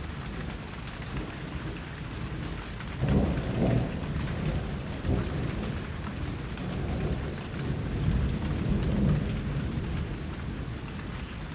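Steady rain falling, with low thunder rumbling that swells about three seconds in and again around eight seconds.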